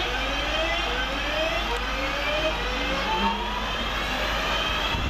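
Class 323 electric multiple unit accelerating, its traction motors giving a whine that rises in pitch in repeated steps, each climb starting again from lower down, over wheel and rail rumble.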